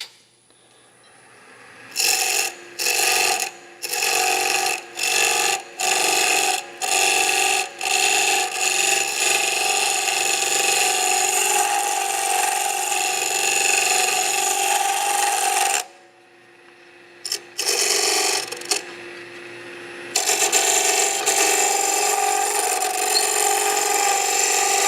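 Turning chisel cutting a spinning pine spindle on a wood lathe: several short touches of the tool, then long continuous cuts with a drop in the middle. These are light clean-up cuts on the shaped spindle before sanding.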